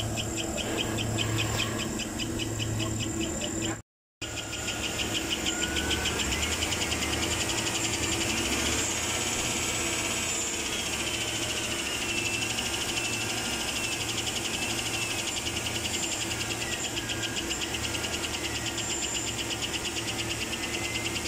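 A GMC Yukon's V8 engine idling with a rapid, steady ticking over the engine hum: the engine problem being diagnosed. The sound cuts out briefly about four seconds in.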